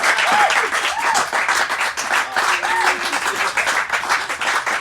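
Audience applauding as the song ends, dense clapping throughout.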